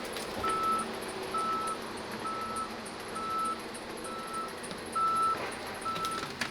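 A vehicle's backup alarm beeping steadily, one single-pitched beep about once a second, seven beeps in all, over faint machine noise.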